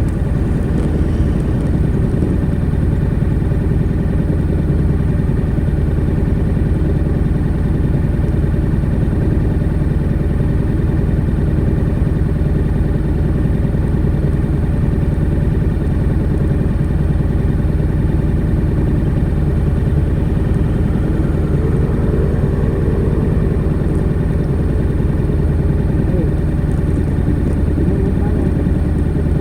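Honda NC700X's 670 cc parallel-twin engine running steadily through its stock exhaust, with a brief wavering tone about two-thirds of the way through.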